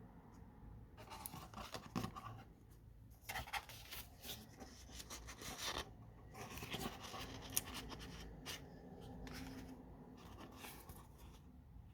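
Paper pages of a handmade junk journal being handled and turned: irregular rustling and crinkling with small clicks and taps.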